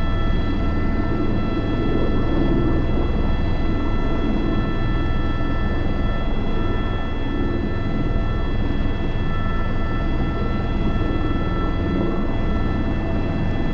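Airbus H125 helicopter in flight, heard from inside the cockpit: a steady whine of turbine and gearbox over continuous rotor and engine rumble, unchanging through the stretch.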